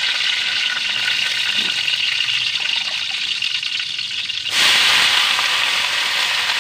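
Oil sizzling in a wok, with a metal spatula stirring. About four and a half seconds in, the sizzle jumps suddenly louder as chopped pechay (bok choy) is dropped into the hot oil.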